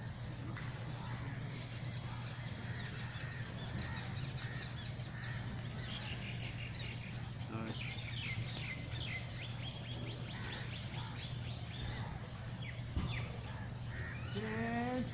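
Birds chirping in short high calls, clustered in the middle of the stretch, over a steady low hum and background noise.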